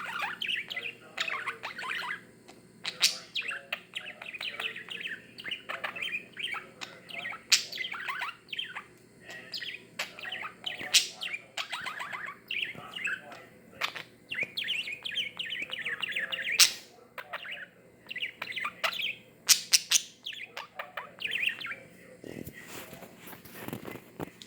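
Budgerigar chattering and warbling in long, busy runs of chirps, with a few sharp clicks now and then.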